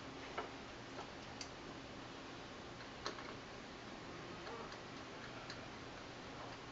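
Faint, irregular clicks and ticks of small hand work on the wiring terminals of an electrical control box, a few sharper clicks among them, over a steady low hum.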